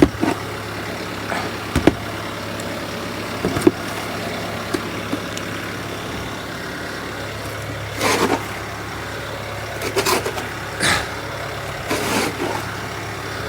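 Bobcat T66 track loader's 75-horsepower diesel engine running steadily while snowblowing, with a constant low drone. A few short, louder rushes of noise come in over it later on.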